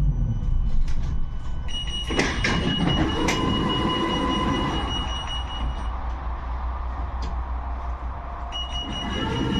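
71-628-02 tram running on its rails with a steady low rumble and a few knocks about two to three seconds in. A high, steady squeal of the wheels on the rails sets in at about two seconds, stops near six seconds and starts again near the end.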